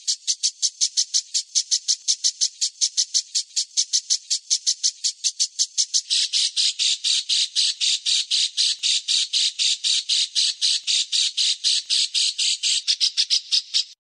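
A songbird's harsh, scratchy call notes repeated rapidly and evenly, about five a second, in a steady chatter.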